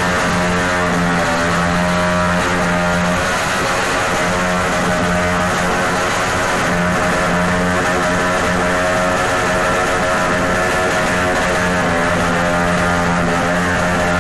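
Honda TMX 155 single-cylinder four-stroke motorcycle engine revved hard and held at a steady high pitch, loud.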